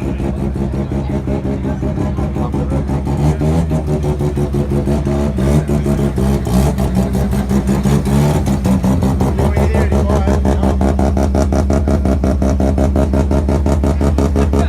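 Car engine revving in a rev contest: a steady, rapidly pulsing engine note, with revs rising and falling between about three and a half and eight seconds in, then holding a strong, even pulse.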